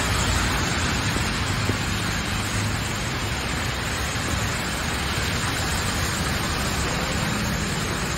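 Heavy rain falling steadily on a waterlogged road, with cars and auto-rickshaws swishing through the standing water.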